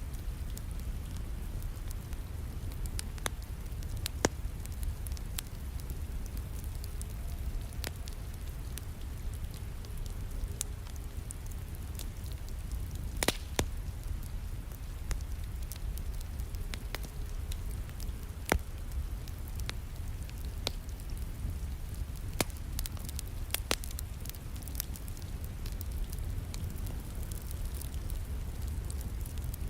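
Wood fire in a fireplace crackling, with sharp irregular pops, a loud one about 13 seconds in and a flurry of them near the end, over a steady low rumble and falling rain.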